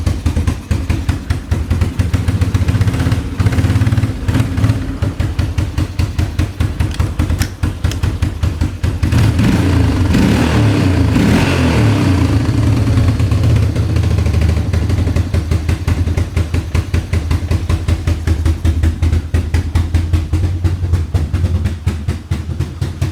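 Carbureted engine running with fast, even firing pulses, rising to higher revs around the middle and then settling back. It sounds like the air-fuel mixture is off and the mixture screw needs adjusting.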